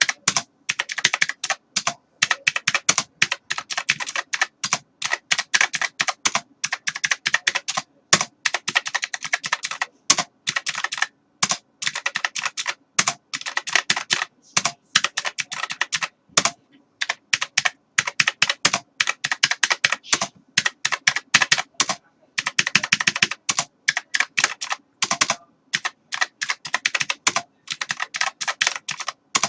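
Typing on a computer keyboard: fast runs of keystrokes clicking in quick succession, broken now and then by short pauses.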